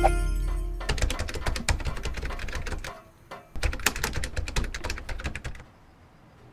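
The last note of a plucked-string tune rings out, then comes a quick run of sharp, irregular clicking taps, several a second. After a short pause a second run of taps follows, then the tapping stops.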